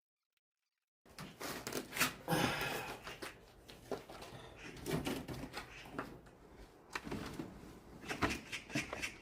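After about a second of silence, close-by handling noises: irregular knocks, clicks and rustling, clattering most around two seconds in and again near the end.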